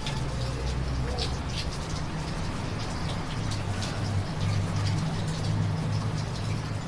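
Steady rain falling, with frequent close drips splashing onto a hard surface, over a low steady rumble.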